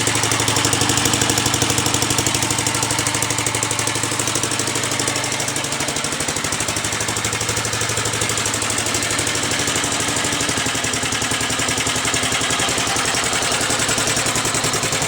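1945 Gravely Model L tractor's single-cylinder engine running steadily with an even, rapid firing beat. It is freshly revived after long disuse and runs without smoking.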